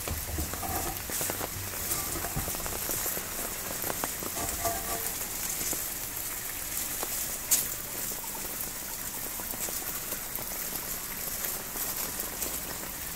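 Steady rain falling on gravel, with rainwater running from an inlet pipe and splashing into a rainwater-harvesting recharge pit. A single sharp click about seven and a half seconds in.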